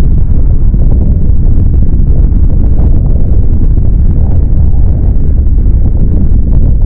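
Strong wind buffeting the microphone in a snowstorm: a loud, steady low rumble with no letup.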